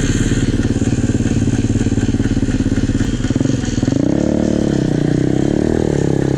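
Pit bike engine running steadily; from about three and a half seconds in, its revs rise and fall unevenly.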